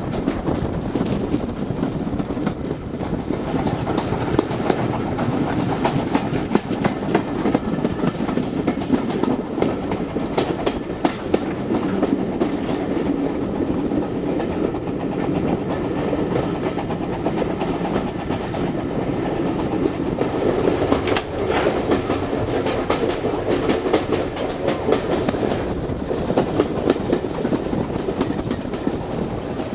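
Heritage railway train running along the line: a steady rumble of the carriages with wheels clicking over the rail joints.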